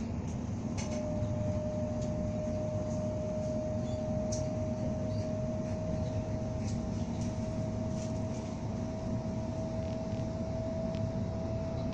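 Train running, heard from inside the carriage: a steady low rumble and hiss, with a steady whine coming in about a second in and rising very slightly in pitch, and a few faint ticks.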